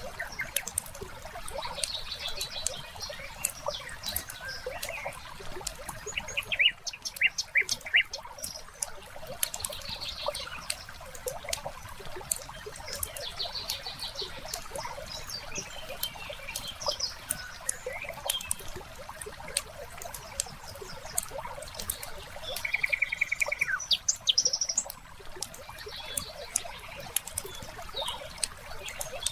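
Wood fire crackling, with frequent sharp pops over a soft bed of noise, and birds chirping now and then: a short run of loud chirps about seven seconds in and a rapid trill about three quarters of the way through.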